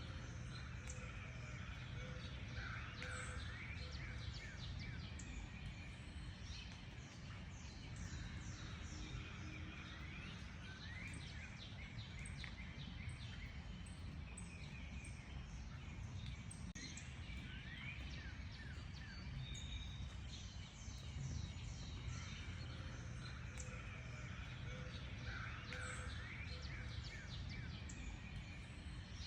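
Several wild birds singing and chirping together in a dense chorus of quick, short notes and brief pitch glides, over a steady low rumble of outdoor background noise.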